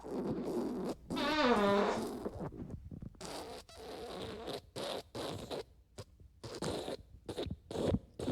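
Fart sound effects in quick succession. About a second in comes a long squeaky one with a wavering, falling pitch, followed by a string of shorter, rougher farts separated by brief gaps.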